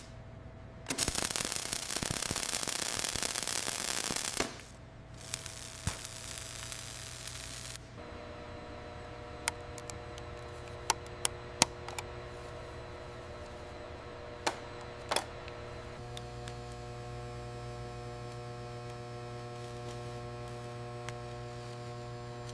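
Steady electrical hum with several held tones. A loud hiss runs for about three and a half seconds from about a second in, and scattered sharp clicks follow.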